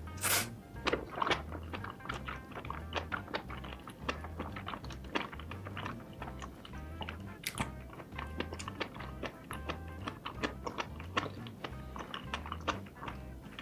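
Close-miked chewing of soft, saucy food (rice cakes, fish cake and mushrooms), with many quick wet mouth clicks and a louder bite right at the start, over background music with a steady bass beat.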